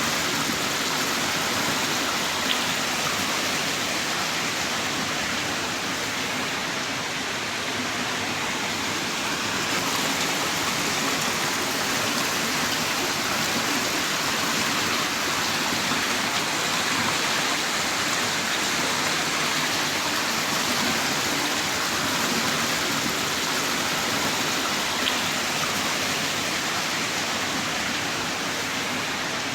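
Heavy rain falling steadily, a dense even hiss of a downpour with no let-up.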